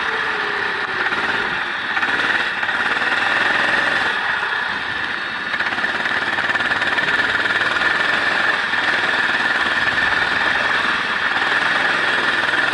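A race vehicle's engine running at speed on the track, heard onboard, under a steady rush of wind and road noise.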